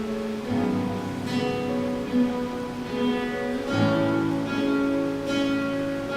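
Guitar ensemble playing several plucked guitar parts together: held bass notes under chords and a melody, with fresh plucked chords sounding about a second and a half in, around three seconds and about five seconds in.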